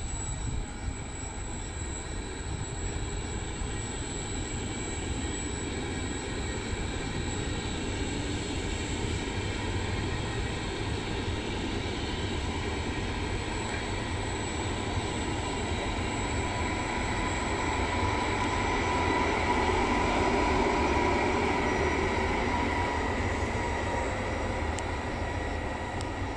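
Regional train of Vivalto double-deck coaches with an E.464 electric locomotive running past: a steady rumble of wheels on rail with a faint locomotive hum. It grows louder as the locomotive comes nearest, then eases off near the end.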